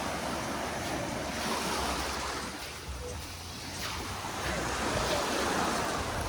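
Waves washing onto a sandy beach, swelling and easing in loudness, with wind rumbling on the microphone.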